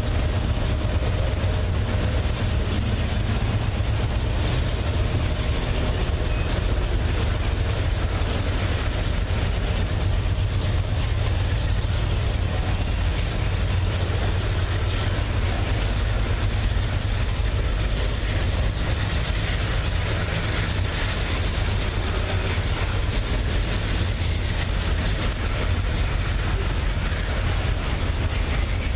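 Diesel freight locomotives running, a steady low rumble with an even noise above it that holds the same level throughout.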